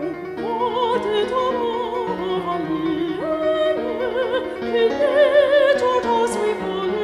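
Operatic classical singing: a trained voice holding long notes with wide vibrato over an instrumental accompaniment.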